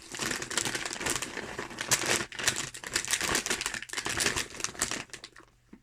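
Crisp packets crinkling and rustling as they are handled and pulled from their packaging, stopping about five seconds in.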